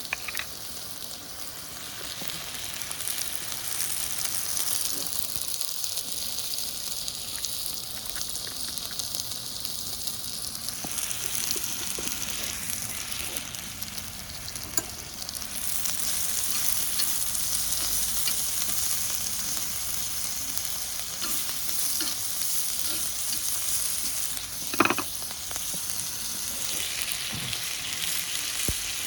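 Seseri (chicken neck meat) and garlic sizzling in a frying pan while being stirred, with small clicks of the utensil against the pan. The sizzle gets louder about halfway through, and there is one sharp knock near the end.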